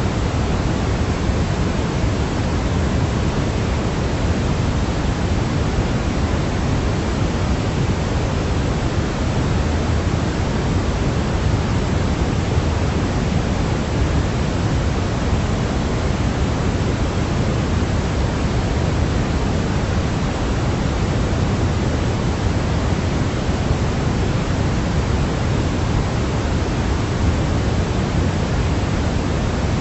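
Steady white noise for a baby's sleep, fuller and deeper in the low end, like pink noise, than a bright hiss. It runs evenly with no breaks or changes.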